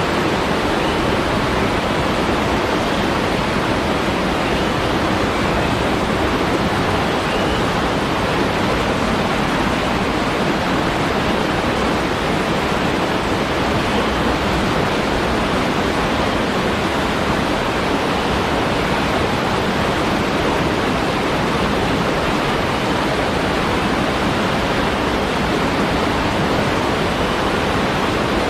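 Waterfall: a steady rush of falling water that holds an even level with no distinct splashes or breaks.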